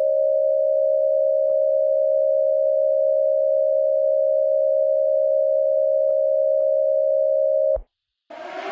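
Emergency Alert System attention signal: a steady two-note electronic tone held for about eight seconds, then cut off sharply. Near the end a rising siren wail starts up.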